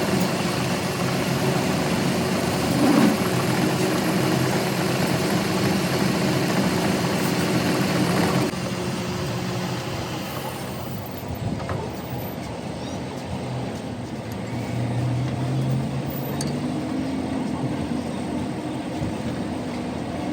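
Steady mechanical running noise with a low hum, from a motor or machine. About eight and a half seconds in it changes abruptly to a quieter, similar running sound.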